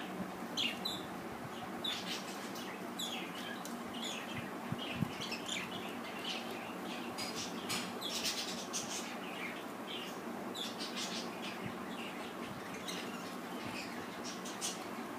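Pet budgerigars chirping and chattering, with many short, high chirps coming irregularly over a steady background hum.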